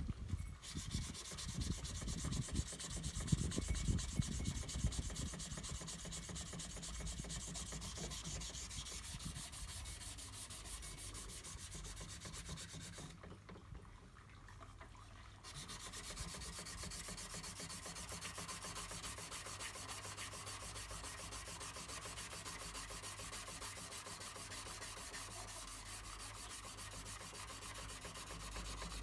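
Dry sanding of hardened auto body filler with abrasive paper, a continuous gritty scraping that stops for about two seconds near the middle and then resumes steadily. A few low thuds come in the first few seconds.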